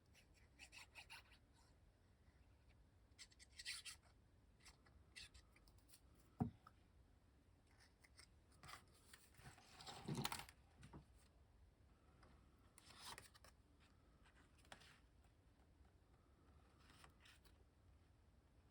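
Faint rustling and scraping of paper pieces being handled and slid on a craft table. There is one sharp tap about six seconds in and a longer rustle around ten seconds.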